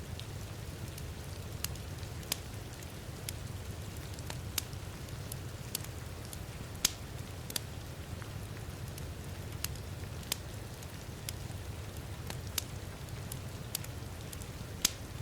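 Wood fire crackling in a fireplace, with sharp pops at irregular moments, the loudest about seven seconds in and near the end, over a steady bed of heavy rain.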